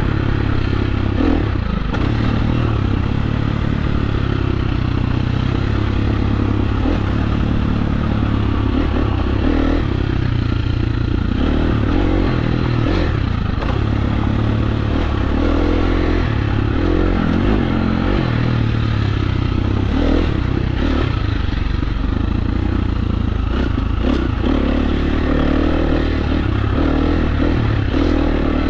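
KTM 350 SX-F dirt bike's single-cylinder four-stroke engine running under load on the trail, its revs rising and falling with the throttle. Occasional clattering knocks from the bike over rough ground.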